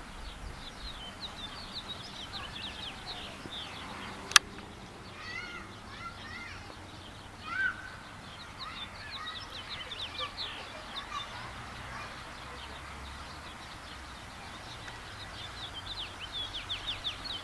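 Songbirds chirping in runs of short, quick falling notes, with a single sharp click about four seconds in.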